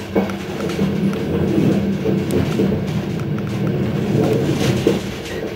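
MÁV InterCity train running along the track: a steady running hum with a few sharp knocks of the wheels over rail joints.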